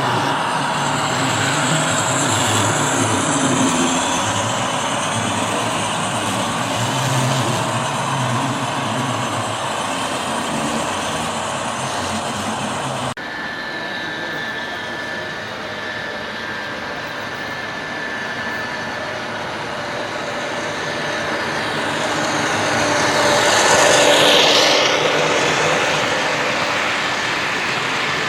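HO scale model trains running on a club layout: steady running noise from the layout with sound-equipped locomotives. The sound changes abruptly a little under halfway through, then swells louder for a couple of seconds near the end.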